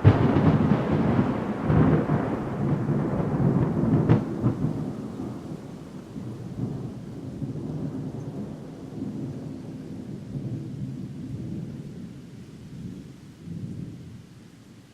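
Thunder: a sudden loud clap, a sharper crack about four seconds in, then a low rolling rumble that slowly dies away.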